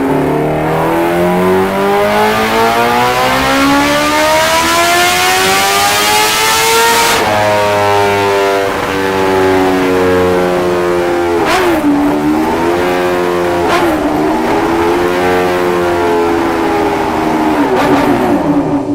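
Supercharged Kawasaki Ninja H2R inline-four being run hard on a dyno. The revs climb steadily for about seven seconds, then the hiss cuts off suddenly and the engine holds high revs. It dips twice with sharp cracks and falls off near the end.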